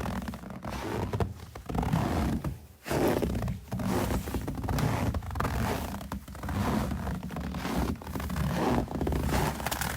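Footsteps crunching in snow, a steady walking pace of about one step a second.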